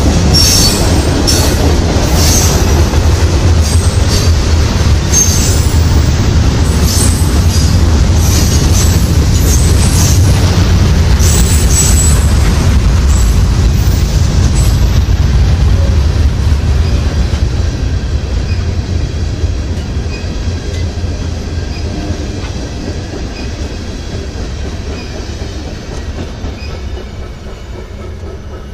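Freight train tank cars rolling past close by, with a low rumble, wheels clattering over the rail joints and high-pitched flange squeals. The sound fades over the last ten seconds as the end of the train goes by.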